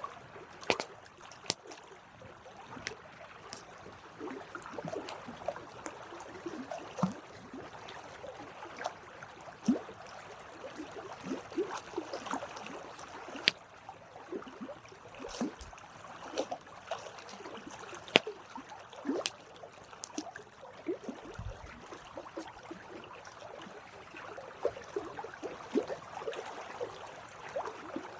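Wood campfire crackling: sharp pops and snaps every second or so over a continuous fizzing and hissing of burning wood.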